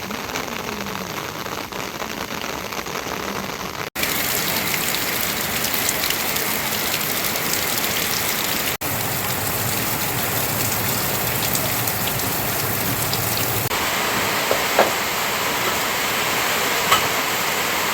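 Rain falling steadily, an even continuous hiss, with two brief dropouts about four and nine seconds in.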